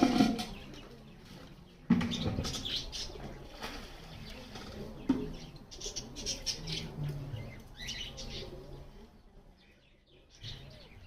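Green ringneck parakeet flapping its wings and chattering, with sudden loud flurries at the start, about two seconds in and again about five seconds in, then growing quieter toward the end.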